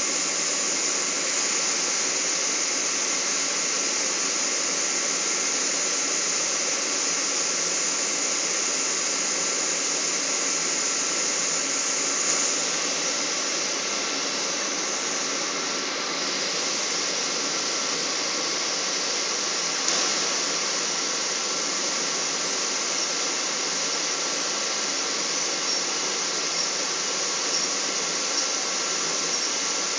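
Boeing 777 cabin noise heard from a passenger seat: a steady rush of jet engines and airflow, with a faint steady whine. There are two small clicks, one about twelve seconds in and one near twenty seconds.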